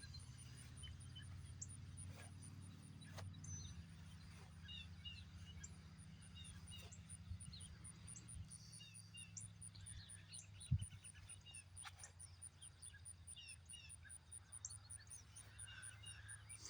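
Faint outdoor ambience: small birds chirping here and there over a steady low rumble. A single sharp thump comes about eleven seconds in.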